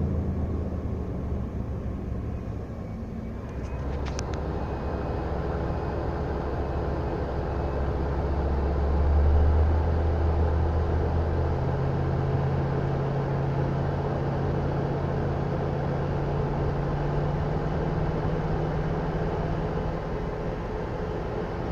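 Van engine brought up from idle with the accelerator and held at a higher speed, so the 90-amp alternator can keep up with a 1500-watt inverter running an electric space heater. The engine note swells and rises about ten seconds in, then holds steady at the higher pitch.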